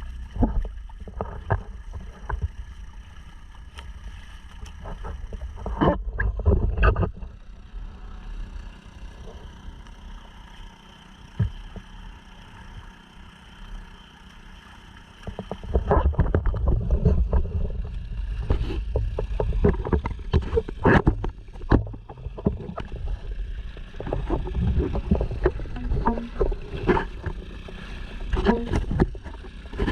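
Honda 2.3 hp four-stroke outboard running steadily, pushing the sea kayak along, with water splashing against the hull. Wind buffets the microphone in gusts, strongest about six seconds in and again through the second half.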